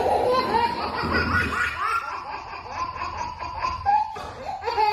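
A person laughing in a long run of short, breathy bursts.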